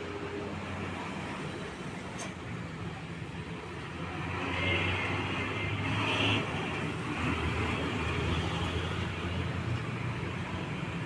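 Truck engine and tyre noise as a truck drives past, growing louder about four seconds in and easing off after about nine seconds, over a steady low engine hum.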